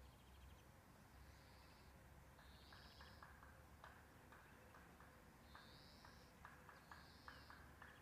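Near silence with faint, repeated high bird calls, each under a second long, and a run of faint ticks in the second half.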